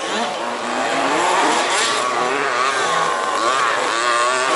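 Small petrol engines of several 1/5-scale off-road RC race cars running together on the track, each revving up and easing off in its own overlapping pitch.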